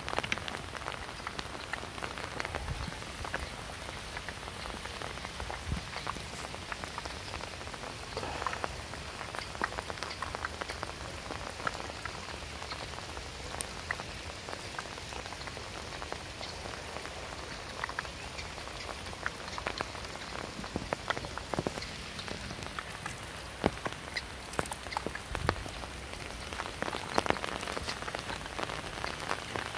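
Heavy rain falling without a break on floodwater and the grassy bank: a steady hiss thick with small drop ticks, and a few louder taps in the second half.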